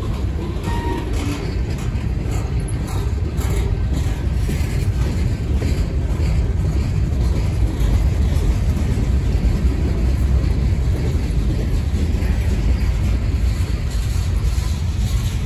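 Freight train rolling past, a steady low rumble of wheels on rail with a few light clicks in the first seconds.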